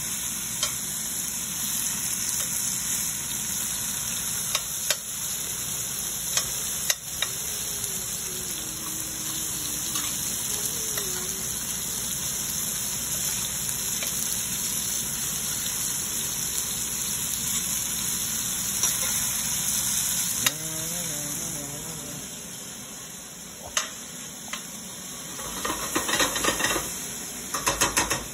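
Chicken and onion pieces sizzling in oil in a stainless steel sauté pan as they brown, stirred with a metal spoon that clicks and scrapes against the pan now and then. A burst of clattering near the end.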